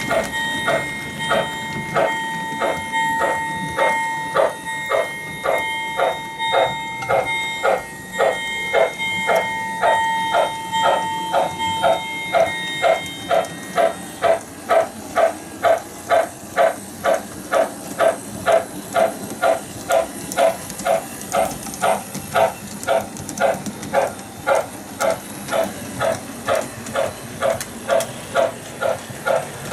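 Electronic Loco-Sound of an MTH RailKing Pennsylvania 6-8-6 steam turbine model locomotive, giving an even steam chuff about twice a second. Over the first half a steady high tone sounds with the chuffs, and it stops about halfway through.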